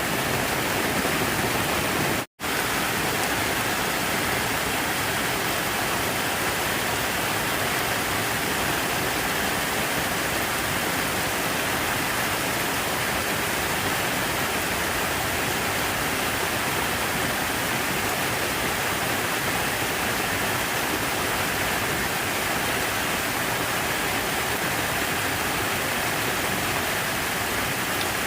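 Steady rush of falling, splashing water, a dense even hiss. It cuts out completely for a split second about two seconds in, then carries on unchanged.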